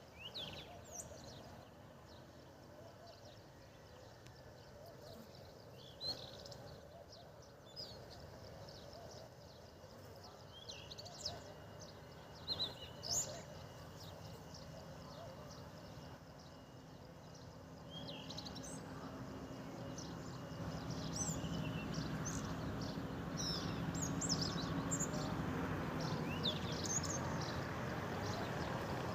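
European goldfinch singing in scattered short, high twittering phrases. Partway through, a steady low background hum grows louder beneath the song.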